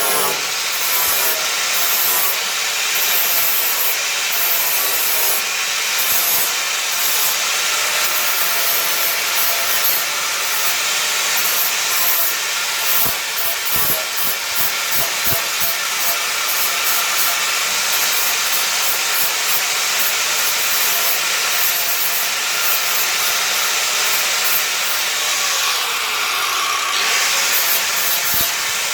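Handheld electric power tool grinding sheet steel non-stop, with a rough grating noise and a motor whine that wavers in pitch as it is loaded.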